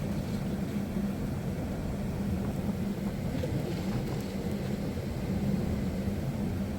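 Vehicle driving at a steady speed: continuous road and engine rumble with a constant low hum.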